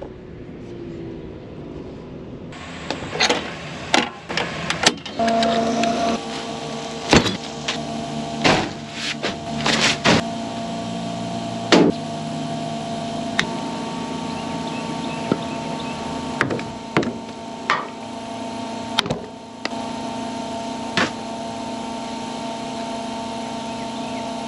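A vehicle engine starts running steadily about five seconds in, with sharp knocks and clicks scattered throughout.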